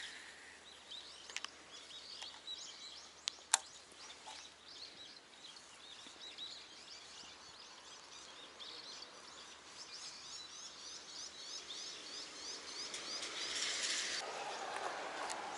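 Small birds chirping and twittering, many short quick calls that grow busier past the middle. A couple of sharp clicks sound in the first few seconds, and a rushing noise swells near the end.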